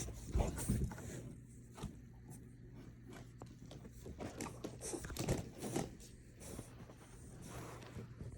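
French bulldog under a sofa making irregular scratchy, crackly scraping and small knocking noises as it moves and works at something.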